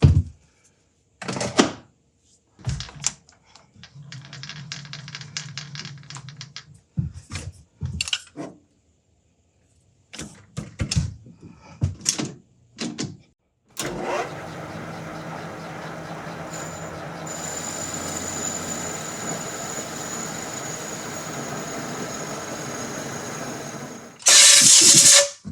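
Scattered clicks and knocks of a part being handled and set up, then a metal lathe running steadily for about ten seconds while opening up a hole in the part, with a thin high whine from the cut. A short, very loud burst of noise comes near the end.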